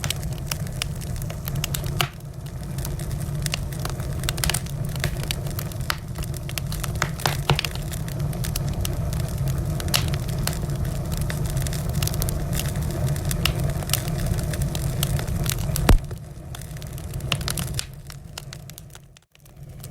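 Wood fire crackling in a fireplace: a steady low rumble with many irregular snaps and pops, one especially sharp pop about sixteen seconds in. The sound dips briefly near the end.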